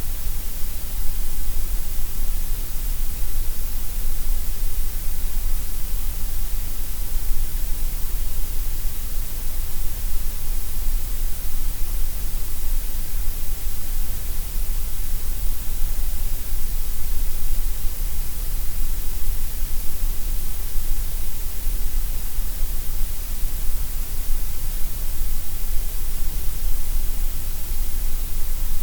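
Steady gray noise: an unbroken, even hiss with more weight in the deep bass and the treble than in the middle.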